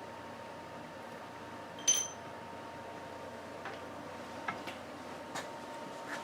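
A single sharp metallic clink that rings briefly, about two seconds in, as a metal tool or part is knocked or set down. A few faint ticks and clicks of handling follow.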